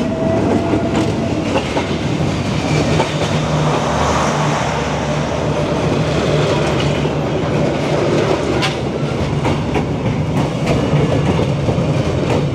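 Passenger coaches rolling past at very close range: a loud, steady rumble and rattle of steel wheels on the track, with sharp clacks now and then as wheels cross rail joints, more of them in the second half.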